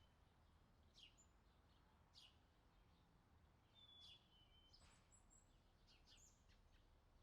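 Faint birdsong over a quiet low background hiss. There are several quick downward chirps, and about four seconds in comes a high clear whistle that steps down in pitch.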